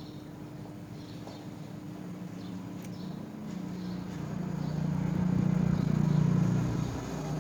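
A motor vehicle passing: its engine hum grows louder over several seconds, peaks, and fades near the end, with faint high bird chirps behind it.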